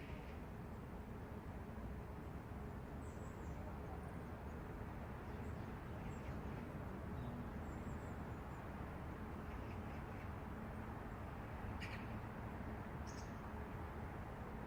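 Outdoor city morning ambience: a steady low rumble of distant traffic, with birds calling briefly several times over it.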